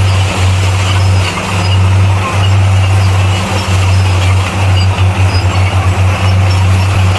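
Bulldozer's diesel engine running steadily with a deep drone, the low hum fluttering unevenly in the second half.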